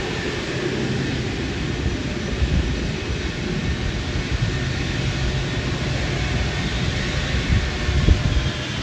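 Jet airliner engines running as a steady, loud rush with a low hum beneath.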